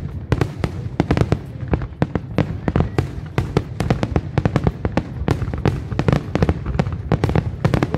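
Fireworks display: aerial shells bursting in quick succession, a dense run of sharp bangs and crackles, several a second.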